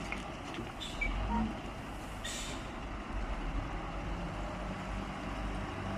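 Diesel engine of a loader running steadily while loading soil, with short noises about one and two seconds in.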